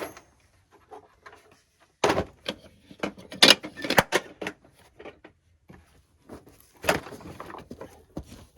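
Irregular knocks, clunks and rustling from things being handled, loudest in a cluster about two to four seconds in and again near seven seconds.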